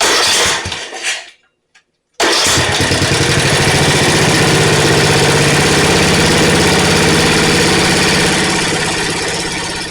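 Snapper riding mower engine being started: a brief burst of cranking, then about two seconds in the engine catches and runs steadily, easing off slightly near the end.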